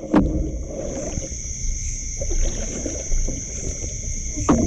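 Crickets chirping steadily at a high pitch over low rumbling water and handling noise, with a sharp click near the start and another near the end.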